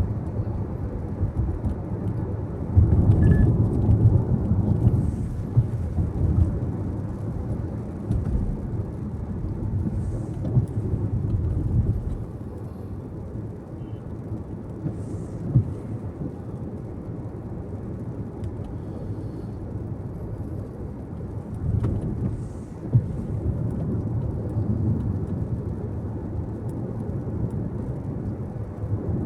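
Car cabin road noise while driving: a steady low rumble of tyres and engine, swelling louder a few times, with occasional short knocks from bumps in the road.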